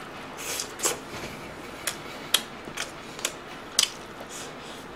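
Close-miked chewing of crispy-grilled bulgogi and rice, with a string of sharp wet mouth clicks and smacks about every half second to a second.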